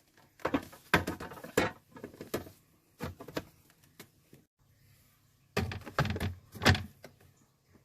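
Knocks and clatters of things being handled and set down, in two bunches of several quick hits each: one starting about half a second in, the other near six seconds.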